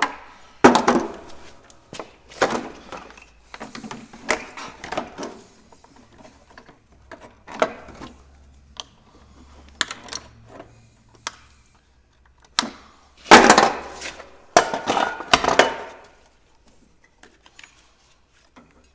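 Irregular knocks, sharp clicks and clatter of hand tools and parts being handled, with a louder run of clattering near the end, then it goes quiet.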